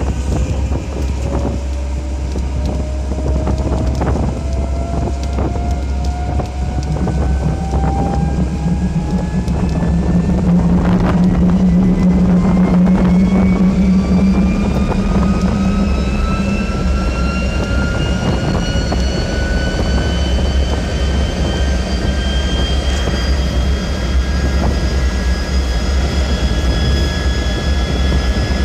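T-33 jet trainer's turbojet engine spooling up, heard from the cockpit: a whine rising slowly and steadily in pitch over a heavy rumble.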